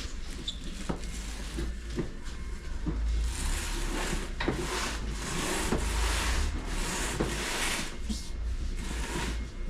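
A heavy boxed garage door being shifted and slid, rubbing and scraping: scattered knocks at first, then several long scraping swells from about three seconds in until near the end.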